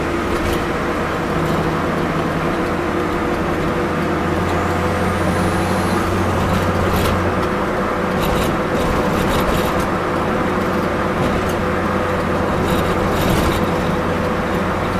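Turbocharged Nissan Sentra GA16DE four-cylinder engine running steadily at highway cruise, with road and wind noise, heard inside the cabin. The engine is running badly after a pull: the owner suspects a popped intercooler pipe or torn coupler leaking boost.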